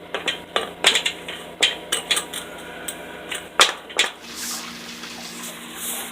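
Metallic clanks and knocks at a basement sump pump and its pit, several sharp ones in the first four seconds. After that comes a steadier rush of water with a low hum.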